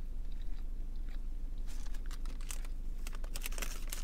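A person chewing a mouthful of chicken sandwich close to the microphone, with wet clicks and smacks that come thicker from about halfway through.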